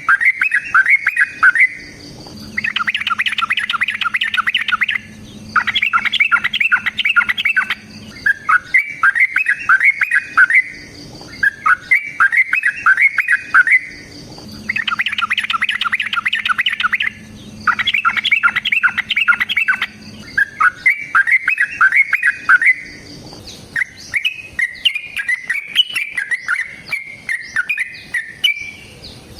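Yellow-vented bulbul (trucukan) singing a loud, rapid, bubbly chattering song in phrases of two to three seconds with short gaps. The phrases run together into continuous chatter near the end.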